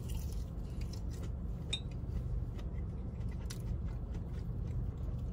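Chewing and biting into breaded fried chicken tenders: scattered small crunches and mouth clicks over a steady low hum inside the car.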